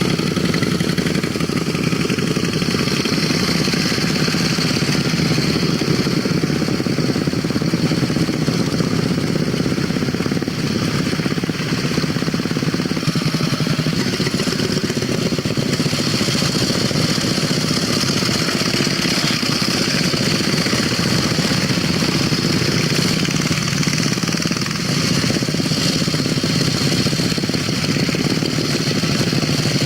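Vintage motorcycle engines running steadily with no change in pace.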